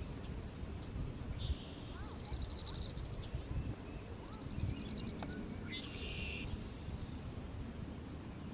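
Barn swallow song: twittering high chirps and short glides, a quick rattled series of notes, and two harsh buzzy notes about a second and a half in and near six seconds in. A steady low background rumble runs underneath.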